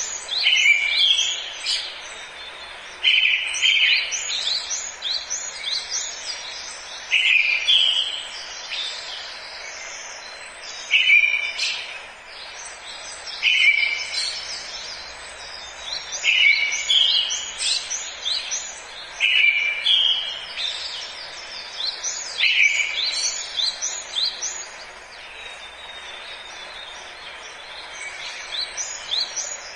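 Forest birds singing: one bird repeats a short, loud phrase every few seconds among quicker, higher chirps from others, over a steady background hiss. The song thins out near the end.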